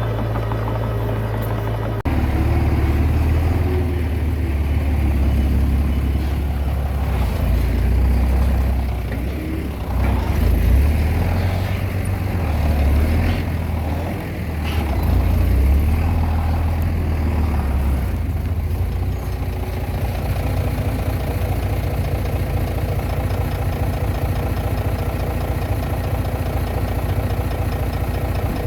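Komatsu D20P bulldozer's diesel engine running. It works harder and wavers in pitch from about two seconds in until nearly twenty seconds, then settles to a steadier run.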